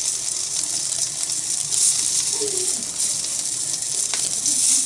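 Okonomiyaki batter and pork sizzling on a thick iron griddle plate over a small wood fire, a steady hiss with scattered crackles and one sharp snap about four seconds in.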